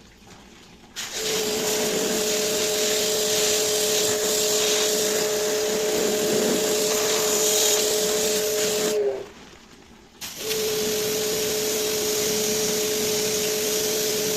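A small electric machine running with a steady motor whine under a strong hiss, switched on about a second in, cut off near nine seconds with the whine sagging as it stops, then started again about a second later.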